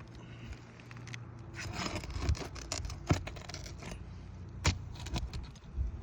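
Asphalt roof shingles being handled: gritty scraping from about a second and a half in, then several sharp clicks, the loudest two about a second and a half apart.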